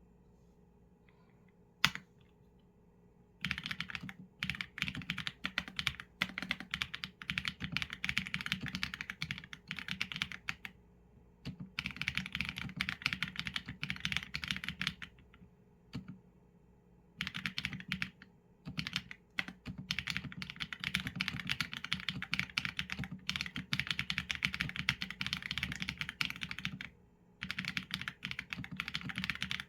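Typing on a Qsenn A75 mechanical keyboard with Leobog Graywood v4 linear switches and PBT keycaps: a single sharp keystroke about two seconds in, then fast runs of key presses from about three and a half seconds, broken by a few short pauses.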